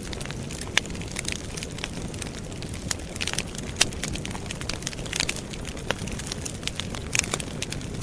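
Outdoor wood campfire crackling: irregular sharp pops and snaps, a few of them louder, over a steady low rumble.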